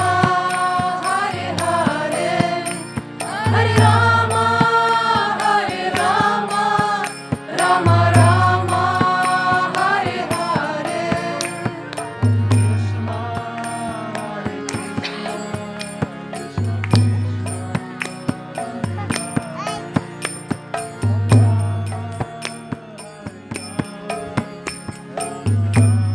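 Kirtan: devotional chanting with instruments. The voices sing for about the first ten seconds and then stop, while the instruments carry on with a steady run of sharp percussion strikes and a low note that comes back about every four seconds.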